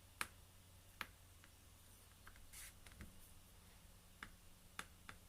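Near-silent room tone with a handful of faint, sharp taps and clicks spread through it, from a paintbrush dabbing the surface of an acrylic painting.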